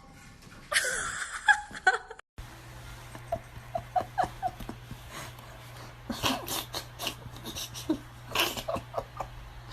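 A dog's short yips and whines, heard over two separate clips with a cut about two seconds in.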